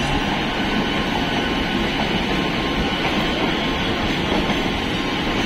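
Steady running noise of an EMU local train, heard from inside the coach: an even rumble and rattle from the wheels on the track.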